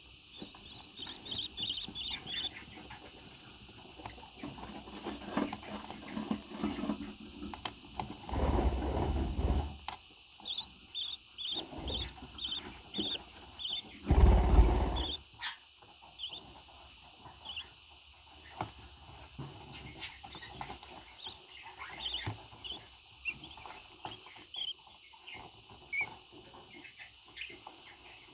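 Pet parrot giving quick runs of short, high chirps, with small scratching clicks and two louder rustling bursts about a third and halfway through.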